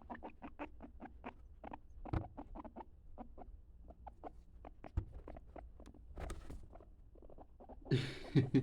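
Capybara making soft, rapid clicking 'chut' sounds, about four or five short ticks a second, with a louder noisy burst near the end.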